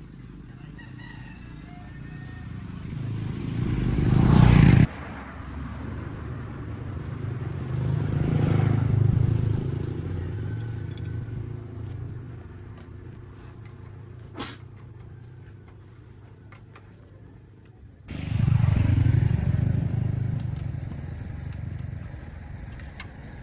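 An engine runs with a low rumble that swells and fades several times; it cuts off abruptly once and starts again abruptly later. A rooster crows faintly near the start.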